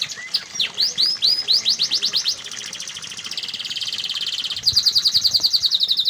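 Domestic canary singing a long run of rapid trills, its repeated note changing every second or two: a few sweeping notes early, a softer, denser trill in the middle, then a louder fast trill from about two-thirds of the way in.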